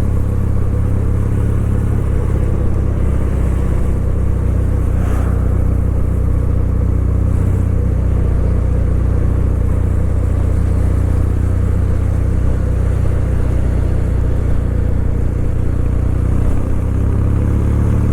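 Kawasaki W800's air-cooled parallel-twin engine running steadily at an even pace, its low exhaust note holding without revving up or down.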